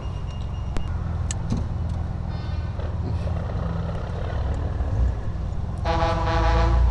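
Steady low rumble of the car's engine at parade pace, then about six seconds in a loud horn blast lasting about a second, which makes children nearby jump as the truck goes by.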